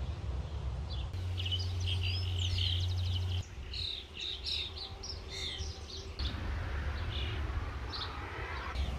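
Several small birds chirping and twittering in short, overlapping calls, over a low background rumble that shifts abruptly a few times.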